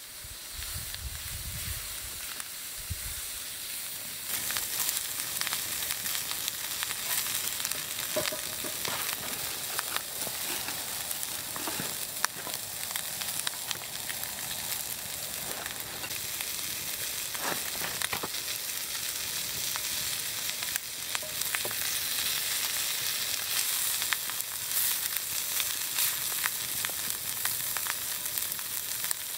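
Ground beef sizzling in a cast iron skillet over a campfire: a steady hiss dotted with small pops and crackles, getting louder about four seconds in.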